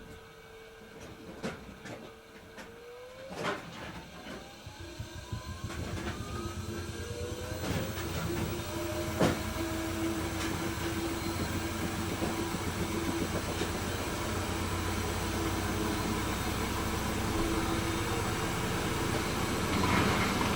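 Hoover H-Wash 300 Plus washing machine's drum motor speeding up into a spin: a few clicks, then a rising whine over several seconds as the sound grows louder, settling into a steady hum and rumble of the drum spinning at speed.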